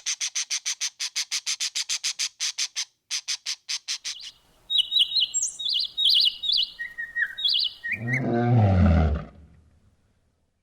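A bird calling: a fast run of high chirps, about seven a second for roughly four seconds, then a few quick sliding chirps. About eight seconds in comes a loud, low animal call lasting about a second and a half.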